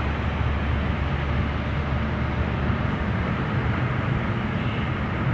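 Steady rumble of a car driving, engine and road noise at an even level.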